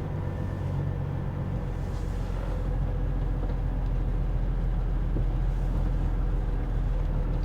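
Semi truck's diesel engine idling with a steady low rumble, growing slightly louder about a second and a half in.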